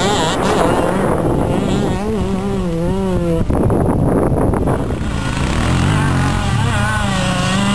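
Two-stroke enduro motorcycle engine revving up and down, its pitch rising and falling several times, with a sudden break about three and a half seconds in.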